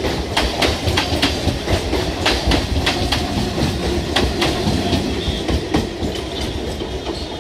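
Train running on track, with a steady rumble and irregular clickety-clack of wheels over rail joints, heard from the door of the moving train as an EMU local passes close alongside. The clicks thin out about five seconds in, once the local has cleared.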